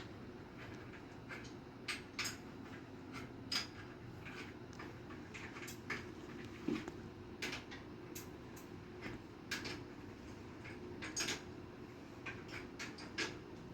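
Irregular light metallic clicks and taps of an adjustable wrench working the water heater's flexible hose nuts, about one or two a second, over a faint steady hum.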